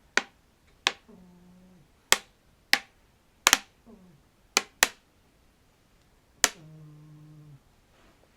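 A collapsible plastic tube being popped close to the microphone: about nine sharp, irregularly spaced pops, two of them nearly together. Some pops are followed by a short, low hum that drops in pitch, the longest near the end.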